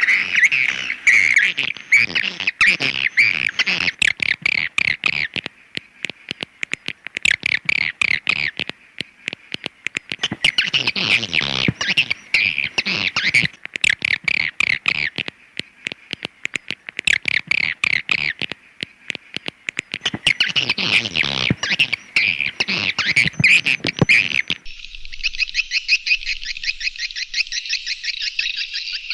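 Swiftlet call recording: swiftlets twittering in dense bursts of rapid high chirps, with short pauses between bursts, switching about three quarters of the way through to a steadier, very fast buzzing trill. It is the kind of lure call played to draw swiftlets in.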